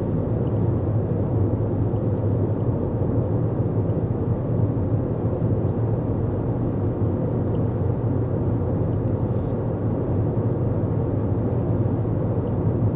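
Steady highway road noise from a 2024 Toyota Corolla Cross at cruising speed: an even rumble of tyres and engine.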